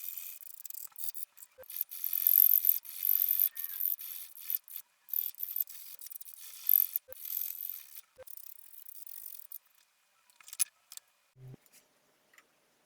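Hand tool scraping wood in quick, irregular strokes with small clicks. The strokes stop about three quarters of the way through, and a few light clicks and a short low knock follow.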